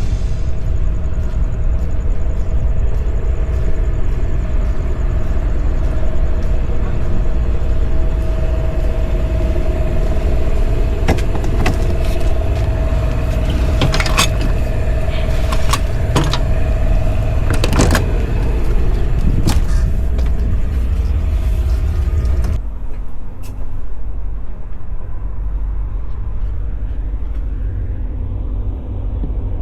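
A motor running with a steady low rumble and a held whine, with several sharp clicks in the middle. About two-thirds of the way in it changes abruptly to a duller, quieter rumble.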